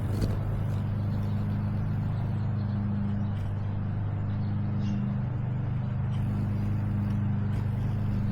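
A steady low mechanical hum, like a motor or engine running without change, with a faint short high chirp about five seconds in.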